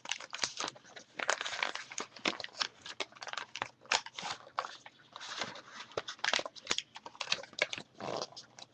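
Sheet of origami paper crinkling and crackling under the fingers as its creases are pinched and worked while a pre-creased tessellation is collapsed: irregular sharp crackles and soft rustles.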